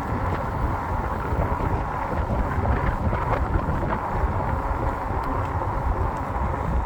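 Wind buffeting the microphone during an e-bike ride, over a steady rumble of the bike's wide tyres on the road.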